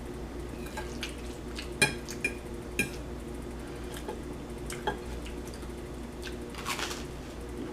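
Cutlery clinking against a plate while eating spaghetti: a handful of sharp clicks spread about a second apart, and a longer rustling sound near the end.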